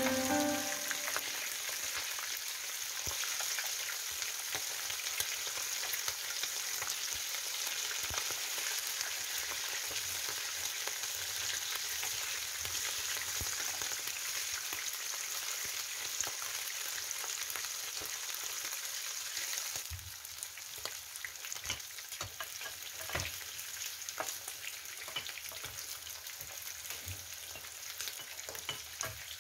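Chicken pieces frying in hot oil in a pan: a steady dense sizzle full of crackling pops, with a metal spoon moving the pieces now and then. The sizzle drops a little in level about two-thirds of the way through, leaving sharper separate pops.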